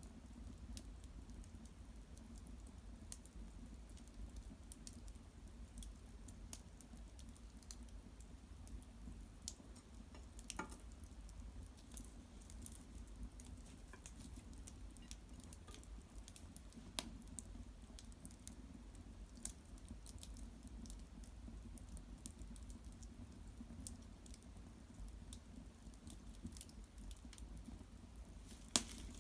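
Cedar branches and bark burning in an irori hearth fire, crackling with irregular small ticks and pops; two sharper pops stand out, one about halfway through and one near the end.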